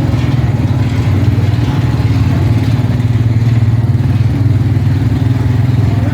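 Car engine idling loudly with a steady, low rumble.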